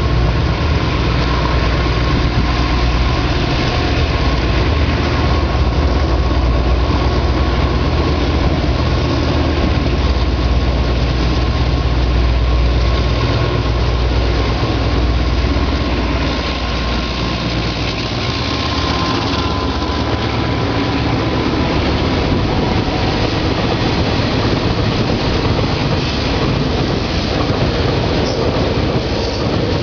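China Railway DF4B diesel-electric locomotive hauling a freight train past at close range. Its heavy engine rumble is strong for the first half and fades after about 16 seconds, while the freight wagons keep rolling past with a steady rushing noise.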